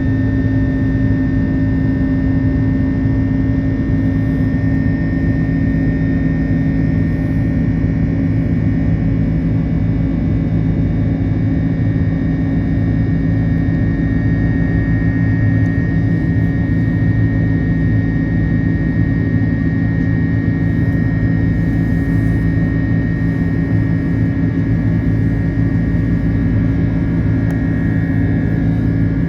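Airbus A330-300 cabin noise: a steady drone of engines and airflow with several constant hum tones, unchanging throughout.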